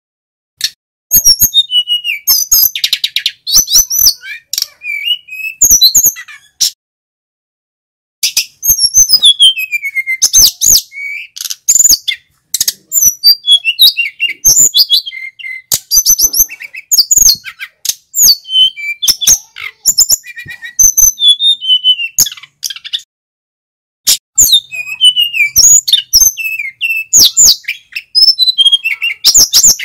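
A male sikatan gunung (mountain flycatcher) singing in loud, fast phrases of high chirps, trills and whistled notes. There are a few short breaks between bursts of song.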